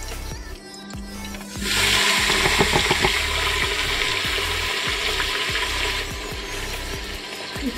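Chopped onions and tomatoes tipped into hot oil in an aluminium pressure cooker. They land with a brief clatter, and a sudden sizzle starts about two seconds in, then eases off after about six seconds. Faint background music runs under it.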